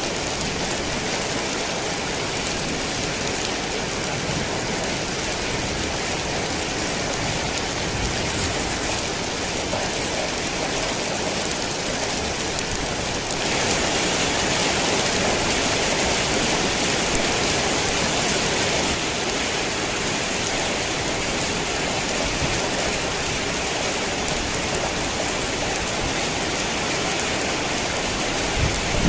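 Heavy rain falling steadily, a dense even hiss of drops on surfaces. It grows louder for a few seconds about halfway through, then settles back.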